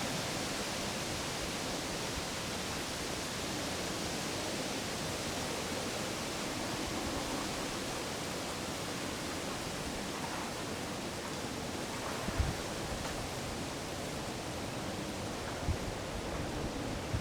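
Steady wind rushing through trees, with two short low thumps of wind on the microphone, about twelve and sixteen seconds in.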